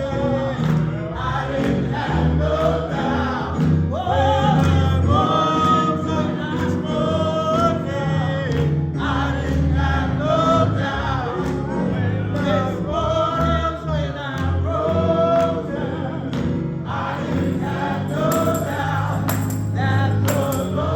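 Gospel choir singing with band accompaniment: a steady bass line under the voices and a beat of percussion, with tambourine.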